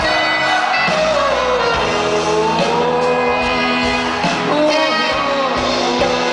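Live band music recorded from the audience, with a singing voice gliding in pitch over the steady accompaniment.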